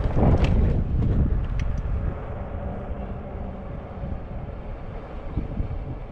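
Wind buffeting the microphone and rolling noise from a moving fat-tire e-bike, a low rumble that dies down after about two seconds, with a few faint clicks.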